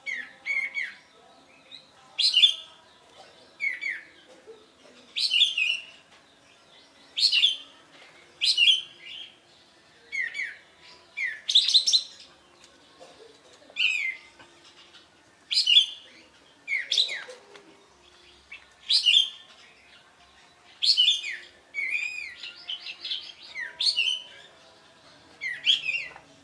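Kapas tembak songbird singing loud, short, clear phrases, each a quick run of falling and warbling notes, repeated about once every one to two seconds.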